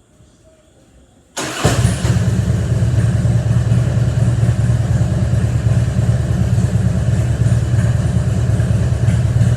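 2000 Harley-Davidson Road King's carbureted Twin Cam 88 V-twin engine starting about a second and a half in, catching almost at once and then idling steadily.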